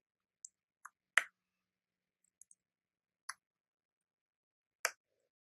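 A few isolated computer keyboard key clicks from typing code, about five sharp taps at uneven intervals, the loudest about a second in.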